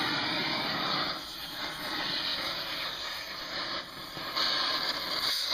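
A power tool hissing steadily as it cuts metal, easing off briefly about a second in and again near four seconds.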